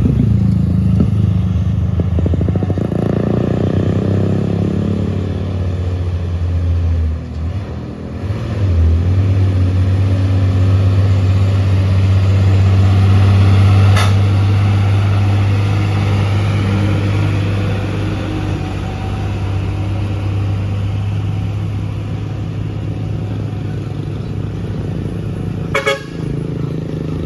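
Heavy diesel truck engine running loud and steady under load as it climbs, dipping briefly about a third of the way through, with a sharp click in the middle and a short clatter near the end.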